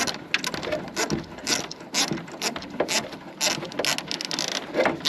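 Plastic cable tie being pulled tight, its teeth ratcheting past the pawl in a run of quick, irregular clicks as it cinches two washer hoses together.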